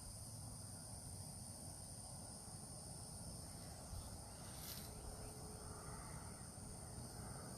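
Steady chorus of insects singing in continuous high-pitched trills, over a low rumble, with one brief sharper high note a little under five seconds in.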